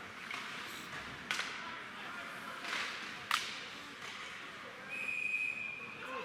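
Ice hockey play: skate blades scraping the ice and two sharp cracks from the puck about two seconds apart, then about five seconds in a referee's whistle blows one steady held note for just over a second, the signal that stops play.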